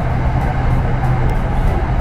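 SRT Red Line electric commuter train running steadily, a constant low rumble and hum, with background music over it.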